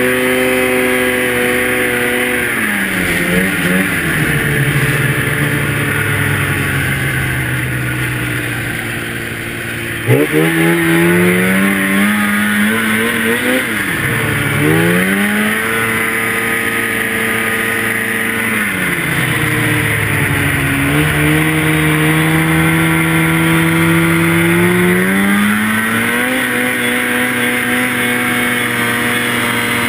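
Two-stroke snowmobile engine running hard, its pitch dropping as the throttle comes off and climbing again when it is opened, several times over; about ten seconds in it jumps sharply back up in revs.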